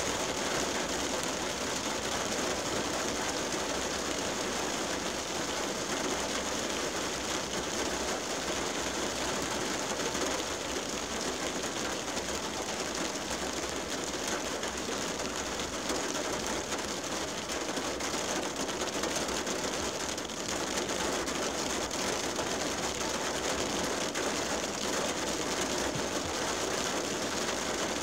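Steady rain hitting a car's windshield, heard from inside the car.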